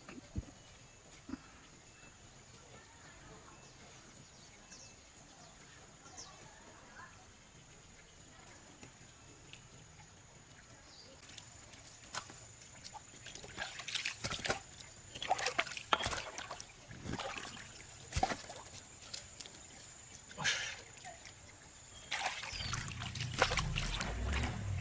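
Water splashing and sloshing in irregular bursts, starting about halfway through and growing busier and louder near the end, after a quiet stretch.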